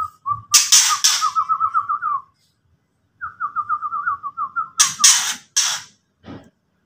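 White-rumped shama (murai batu) giving its rattling ketrek call: two runs of quick repeated notes, each about a second and a half long, broken by loud harsh rasps. This is the excited challenge call used to rile rival birds.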